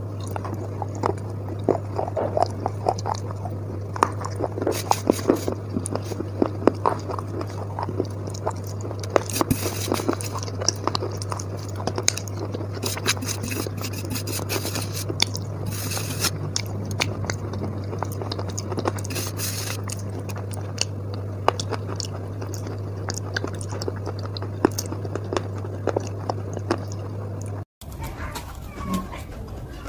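Close-up crunching and chewing of a grey chalk paste, with many short crackles and fingers scraping it off a steel plate, over a steady low hum. The sound changes abruptly near the end.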